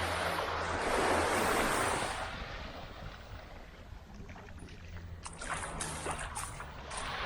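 Small waves washing up the beach and hissing back, swelling about a second in and again near the end, with a low steady hum underneath.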